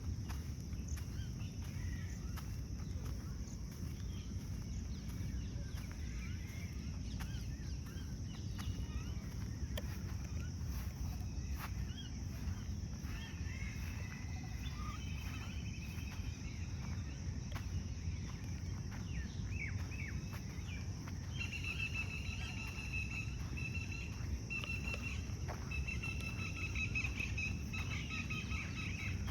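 Birds calling in a park. Scattered chirps come in midway, then a rapidly repeated chirping call takes over for the last third, over a steady low rumble and a steady high hiss.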